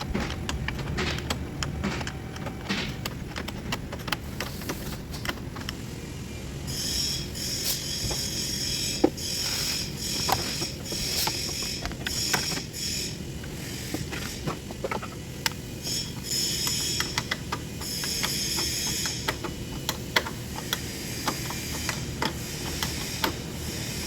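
Metal hand tools clicking and knocking, with ratchet-like clicking, as an engine is bolted into a car. From about seven seconds in, a high, shrill buzz comes and goes over the work.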